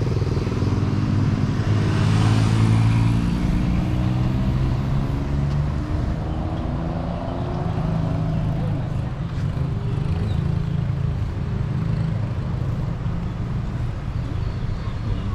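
Street traffic: motor vehicle engines running as vehicles pass close by. The loudest goes by about two seconds in, its engine note falling as it passes.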